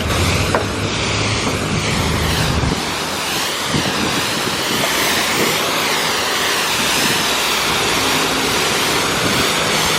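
High-pressure spray wand at a self-serve car wash blasting water onto a car: a loud, steady hiss that shifts in tone as the spray moves over the body. A low hum sits under it for the first two or three seconds.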